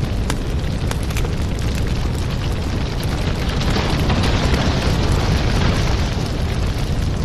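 Wood fire in a fireplace crackling, with frequent sharp pops over a steady low rumble; the hiss swells for a couple of seconds around the middle.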